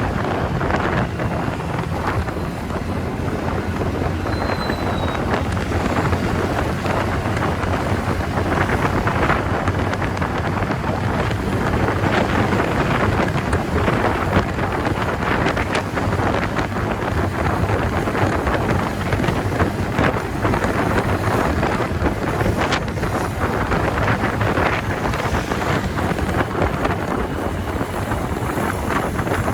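Wind buffeting a rider's microphone at highway speed on a TVS Ntorq scooter, a steady rushing noise with the engine and road noise low underneath.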